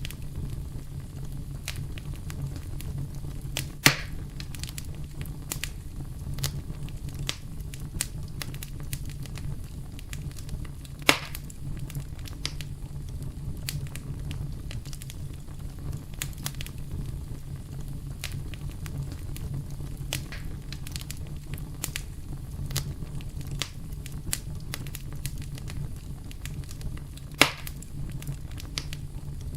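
Wood campfire burning, with a steady low rumble under constant small crackles. Three sharper pops stand out: about four seconds in, about eleven seconds in, and near the end.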